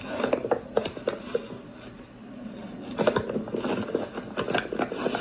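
Scraping and a run of short, light knocks, in two clusters: one near the start and a busier one from about three seconds in.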